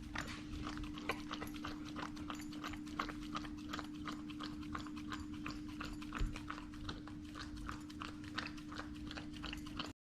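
Dog licking rapidly at a whipped cream container, a quick irregular run of wet licking clicks, over a steady low hum. The sound cuts off just before the end.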